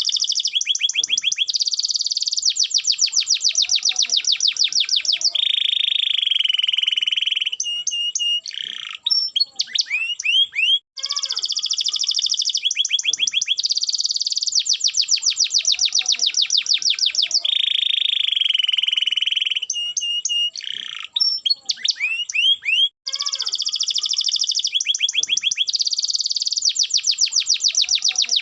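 Canary song of rapid, high trills and rolls, one phrase after another, with the same sequence of about twelve seconds repeating as a loop. It is a stimulation (masteran) recording of the kind played to set reluctant canaries singing.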